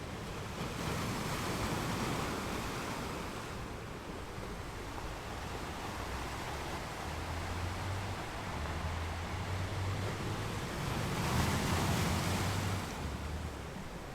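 Ocean waves washing onto a beach, the surf swelling twice: once about a second in and again near the end. A low rumble runs underneath.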